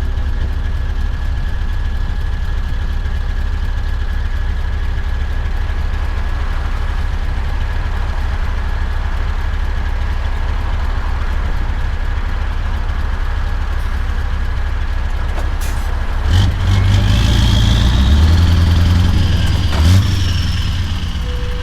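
Scania V8 diesel truck engine running with a steady low drone, then pulling harder and louder for the last few seconds, with a high whistle rising and falling over it. Two sharp clicks are heard, one just before the engine gets louder and one near the end.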